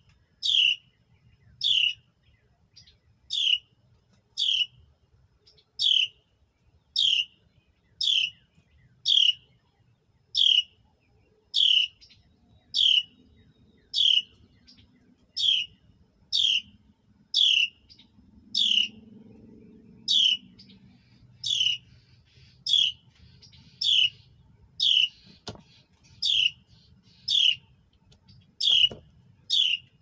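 A small songbird calling steadily: one short, high note sliding down in pitch, repeated about once a second.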